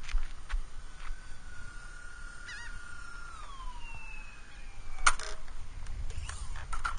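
Electric motors of a Dynam Sky Bus C-47 RC plane whining steadily, then sliding down in pitch as the throttle comes off on the landing approach. About five seconds in comes a sharp thump from a hard touchdown, followed by a few smaller clattering knocks.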